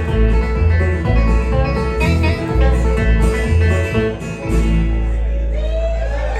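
Bluegrass trio of acoustic guitar, banjo and bass playing the instrumental close of a song, ending on a final chord about four and a half seconds in that is held and left to ring.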